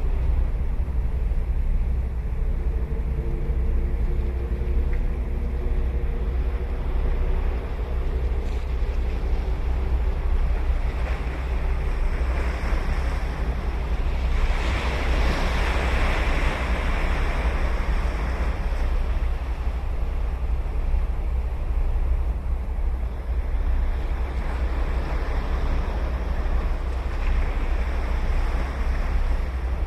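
Ocean surf washing onto a sandy beach, with one wave breaking loudest about halfway through, over a steady low rumble of wind on the microphone. A faint distant engine hum sits underneath during the first part.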